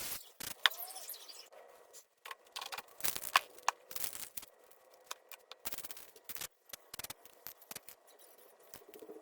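Irregular scrapes, clicks and short hisses of hands-on spray-paint work: cans, tools and paper being handled on the work surface. A sharp click stands out twice, under a second in and about three seconds in.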